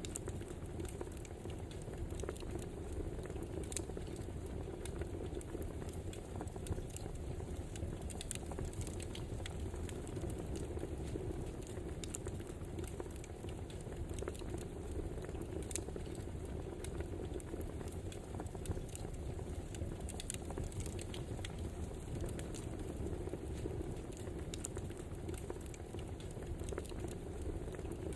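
Wood fire crackling: a steady low rush of burning with frequent small, irregular pops and snaps.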